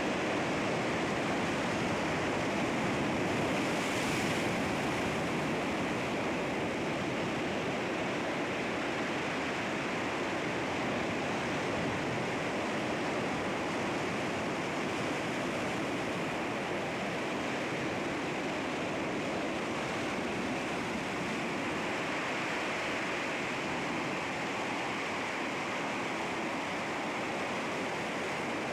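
Sea waves breaking and washing against rocks, a steady rushing surf with gentle swells.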